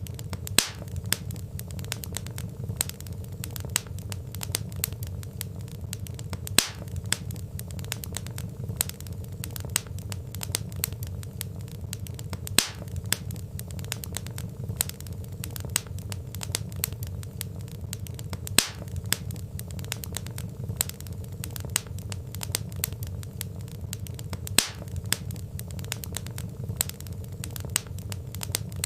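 Wood fire burning in a fireplace: logs crackling and popping over a steady low rumble of the flames, with a louder sharp pop about every six seconds.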